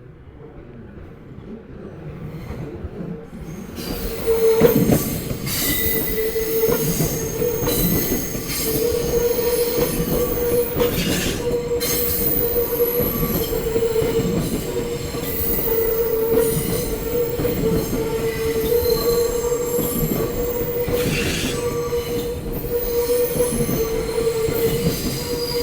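An electric commuter train running past on the rails, building up over the first few seconds. It settles into a steady, high-pitched wheel squeal over the rumble and clatter of the wheels, with a few sharp knocks as the wheels cross rail joints.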